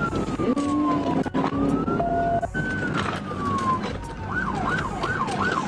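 Police car siren on slow wail, sweeping down, up and down again in long glides, then switching near the end to a fast yelp, over the pursuing car's engine and road noise.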